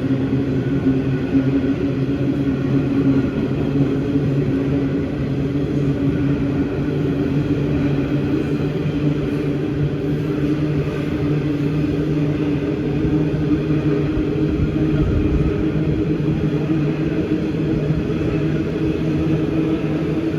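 81 class diesel-electric freight locomotives running with a steady engine drone made of several low, constant tones.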